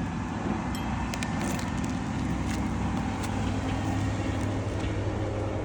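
A motor vehicle's engine running close by, a steady low drone that grows louder partway through and eases near the end, with a few light clicks over it.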